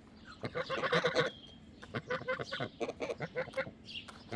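Geese and chickens calling: a burst of short honks and clucks about half a second to a second in, then scattered short calls.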